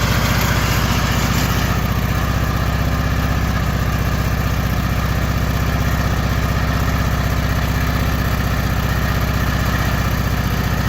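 Riding lawn mower's small engine running steadily at idle, an even low hum.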